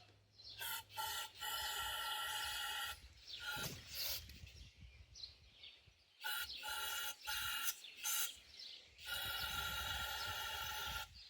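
Aerosol can of carburetor cleaner spraying in three hissing bursts of one to two seconds each, the first broken briefly near its start, into a small-engine carburetor to flush rust out of its jet passages.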